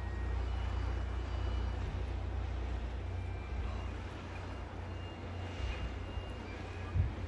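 Low steady rumble of a tour coach's engine and road noise, heard from inside the moving coach.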